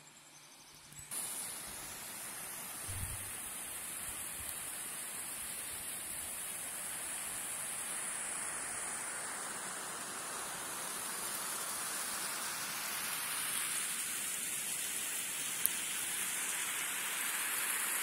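Steady rushing water noise, a hiss with no pitch that starts abruptly about a second in and slowly grows louder.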